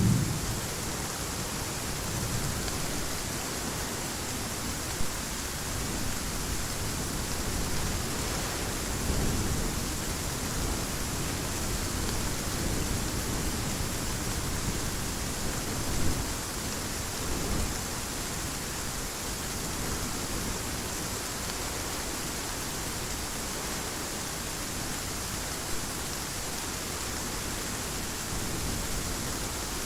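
Steady rain, an even hiss, with the tail of a thunder rumble dying away at the very start and faint low rumbles swelling briefly twice later.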